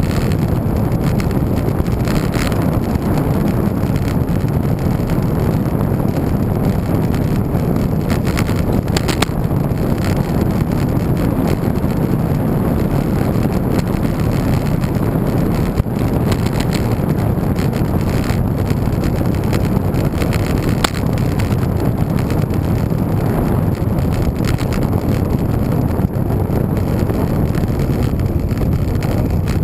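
Steady low wind rumble on the microphone of a camera riding along on a moving road bike, with a few faint clicks now and then.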